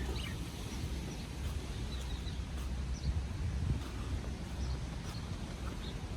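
Outdoor ambience: a steady low rumble with birds chirping in short, scattered calls throughout.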